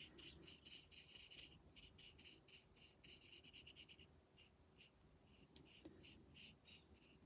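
Faint, quick strokes of a watercolour paintbrush on card, about five a second, thinning out after about four seconds.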